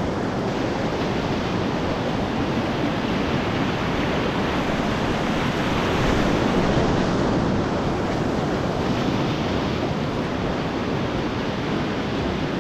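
Whitewater rapids rushing steadily around a kayak, heard close up, swelling a little louder about six seconds in.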